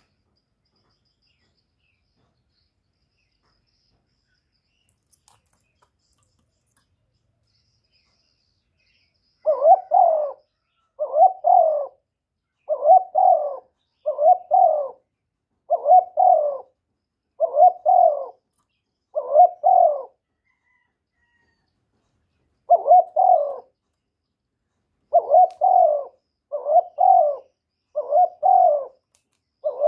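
A male spotted dove cooing loudly in a quick, evenly repeated run of short coos, roughly one every second and a half. The coos start about a third of the way in and break off briefly near two-thirds through before resuming.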